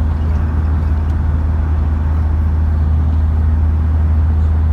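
Steady low rumble of a vehicle's engine and road noise, even throughout, as heard from inside a moving vehicle.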